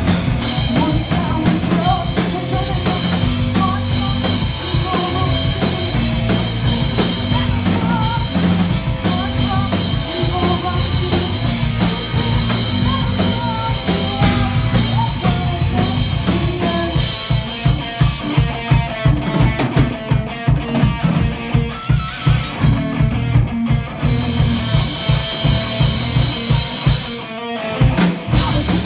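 Metal band playing live with the drum kit to the fore. Past the middle the high end thins out and fast, even drum strokes drive the music; just before the end there is a brief break, then the full band comes back in.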